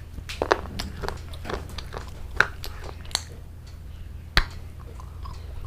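Close-miked eating: biting and chewing with irregular sharp, crunchy clicks, the sharpest one about four seconds in.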